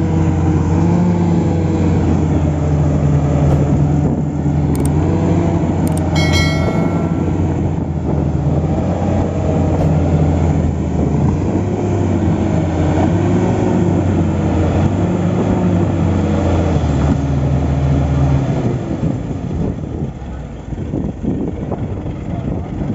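Komatsu D65P bulldozer's diesel engine running hard and steady while the machine is bogged in deep mud. The engine sound drops back about eighteen seconds in. A brief ringing clank comes about six seconds in.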